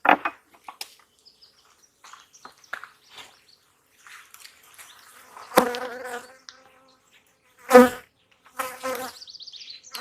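Honeybees buzzing in close passes by the microphone. Each pass is a steady hum that swells and fades, loudest a little past halfway and again near the end, with a few light clicks in the first seconds.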